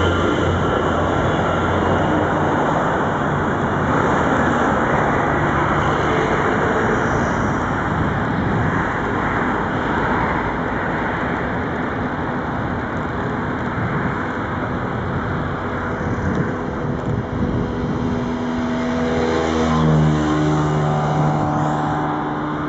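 MaK 6400-class diesel-electric shunting locomotive running over steady background noise. Its engine note comes up strongly near the end, rising in pitch as it is revved.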